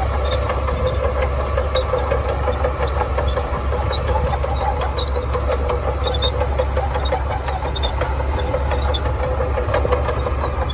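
Diesel engine of a Shantui DH17C2 crawler bulldozer running steadily, with a constant low rumble and scattered light clinks.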